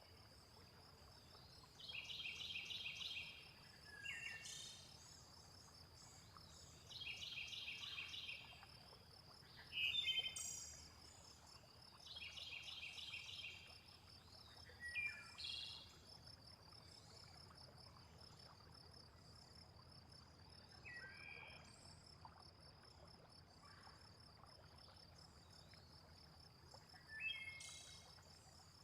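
Recorded nature ambience from a sleep-sound mix. A steady high insect trill runs throughout. Over it, birds call: a short pulsed phrase repeats about every five seconds in the first half, and other chirps and a few falling calls come in between and near the end.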